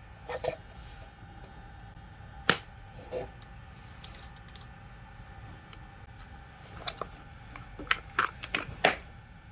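Scattered light clicks and knocks of small hard parts being handled. The single loudest knock comes about two and a half seconds in, and a quick cluster of several sharper clicks comes near the end.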